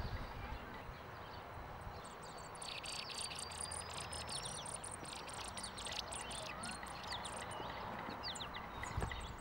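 Small songbirds singing outdoors: a fast run of short high chirps and a thin rising whistle from about two and a half seconds in, over a soft steady outdoor hiss. A soft low thump near the end.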